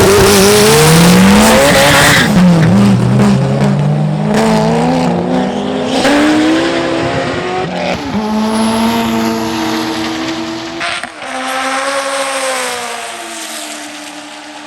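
Race cars accelerating hard. The engine notes climb in pitch and drop back at each gear change, loud at first, then fading as the cars pull away.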